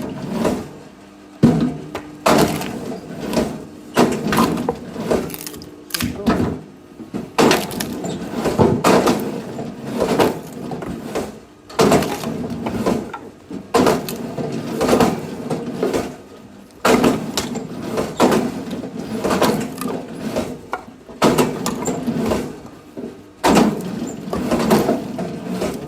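Firewood being split: repeated sharp knocks and cracks of wood, coming every second or two at an irregular pace.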